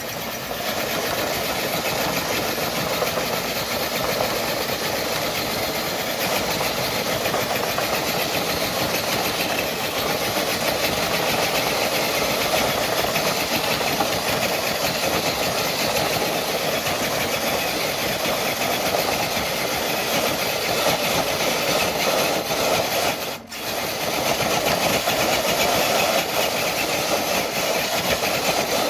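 Scale electric RC crawler truck pulling a dead-weight sled loaded with ten bricks: the motor and gears whine steadily under load while the sled drags along. The sound breaks off for an instant about two-thirds of the way through, then carries on.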